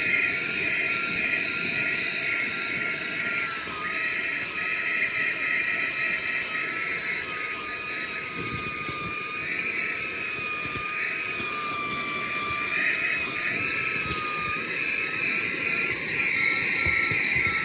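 Rabigala HL-138 cordless handheld vacuum running: a steady high motor whine over rushing air. The pitch sags slightly and recovers now and then as the load on the motor changes.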